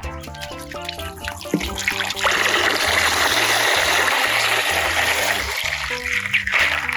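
Background music with a tuneful melody; about two seconds in, water starts running steadily over it and stops shortly before the end.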